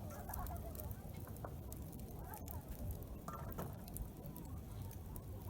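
Wood campfire crackling, with scattered sharp pops over a low rumble, and faint chatter of other people in the background.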